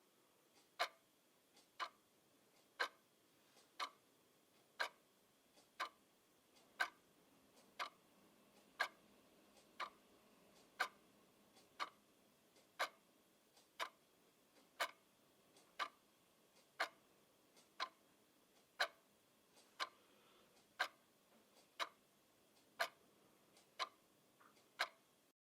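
A clock ticking steadily, about one tick a second, each tick with a fainter click just before it.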